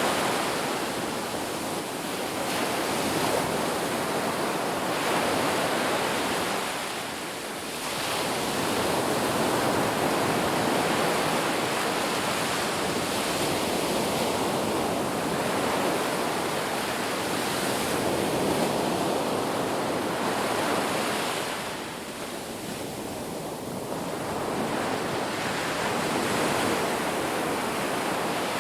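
Ocean surf washing onto a beach: a steady rush of breaking waves that swells and ebbs, easing off briefly about seven seconds in and again a little past twenty seconds.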